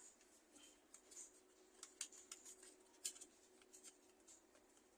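Near silence, with a few faint, scattered clicks from a CPU being handled and fitted into the motherboard's AM4 socket.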